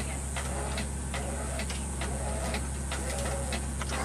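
Vehicle engine running steadily, with scattered short clicks and knocks over it.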